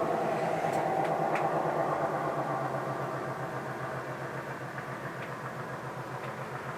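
An engine running steadily with a low pulsing hum that slowly fades.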